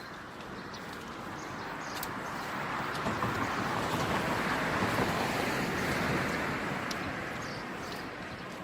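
A vehicle passing by, its noise swelling gradually to a peak about halfway through and then fading away.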